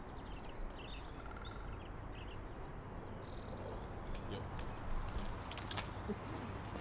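Small birds chirping and calling, with a short rapid trill about three seconds in, over a steady low background rumble.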